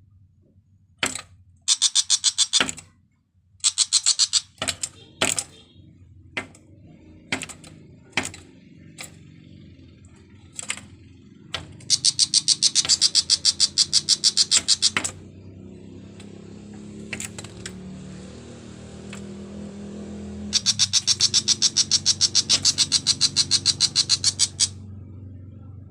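A bird giving rapid, harsh rattling chatters, several long trains of fast clicking notes lasting up to about four seconds each, with single sharp clicks in between.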